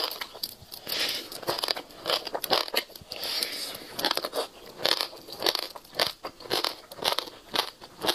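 Close-miked mouth sounds of eating passion fruit pulp: the hard black seeds crunching and crackling between the teeth with wet chewing, in repeated bites about two a second.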